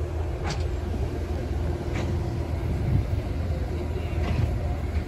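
Cog railway train running, a steady low rumble heard from on board, with a humming tone that fades out about halfway and a few short clicks.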